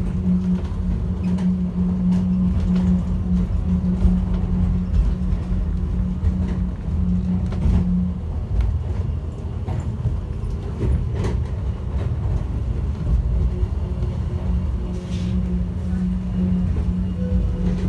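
Airport people-mover train running between stations, heard from inside the car: a steady low rumble with a hum that drops out about eight seconds in and returns near the end, with occasional sharp clicks.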